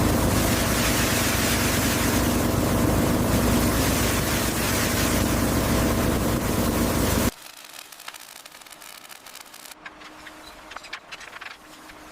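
Heavy machinery engine running steadily under a loud hiss, cutting off abruptly about seven seconds in and leaving a quiet background with faint scattered clicks.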